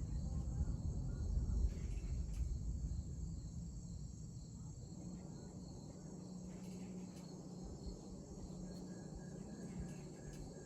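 Steady chorus of crickets and other insects, with a low rumble of distant thunder that swells in the first two seconds and fades away by about four seconds in.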